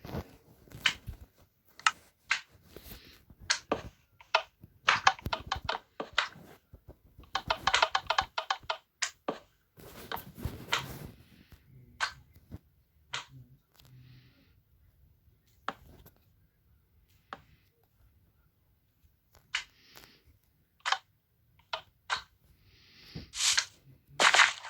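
Irregular clicks and knocks of objects being handled, with two short fast rattles of quick repeated ticks and a few brief hissing scrapes near the end.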